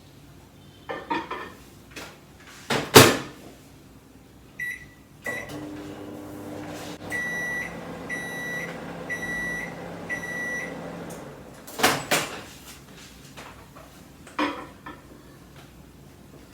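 Microwave oven in use: the door is shut with clicks and a knock, a keypad beep sounds, and the oven hums steadily as it runs. Four beeps about a second apart mark the end of the cycle, the hum stops, and the door clicks open with a knock.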